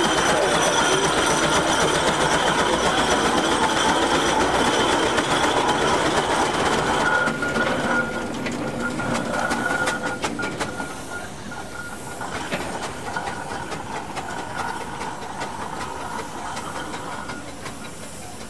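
Steam road vehicle running past, a dense mechanical clatter with some hiss. Loud at first, then it drops away in two steps about seven and ten seconds in, leaving a fainter running sound.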